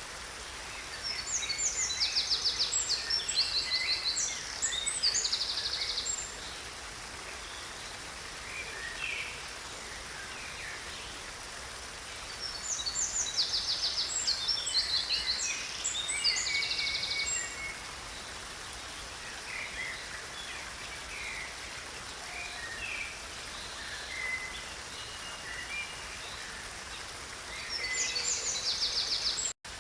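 Songbirds singing in two bouts of quick trills and chirps over a steady background of running water. The sound cuts out for a moment near the end.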